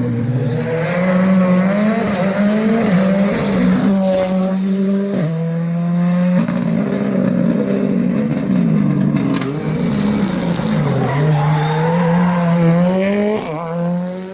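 Ford Fiesta R5 rally car's 1.6-litre turbocharged four-cylinder engine at full effort on a stage, its revs rising and falling repeatedly through gear changes and lifts. There are sudden breaks about 4 and 5 seconds in, and the sound drops briefly near the end.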